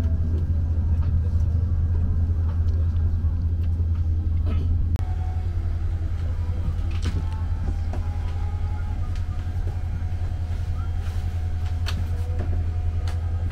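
Steady low rumble of engine and airflow noise in the cabin of a Boeing 767-300, with a few faint clicks above it. It drops slightly in level about five seconds in.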